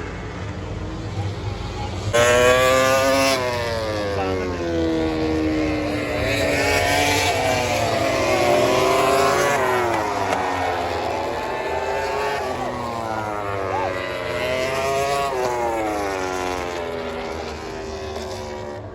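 MotoGP race motorcycles passing the stands, several engines at once. Their pitch climbs through the gears and falls away as each bike goes by, starting suddenly about two seconds in and loudest just then.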